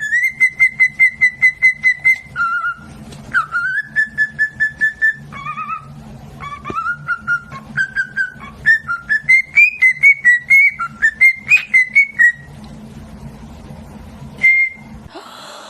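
Pet bird whistling a song of rapid repeated notes, about six a second, in phrases that step up and down in pitch, stopping about 12 seconds in, with one short whistle near the end. A steady low hum runs underneath.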